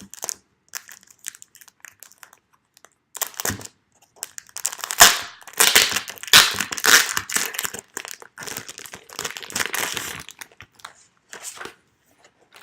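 Packaging crinkling and crackling in quick irregular bursts while an A6 Hobonichi planner is handled and unwrapped for fitting into its cover. It starts about three seconds in, is loudest in the middle and stops about ten seconds in.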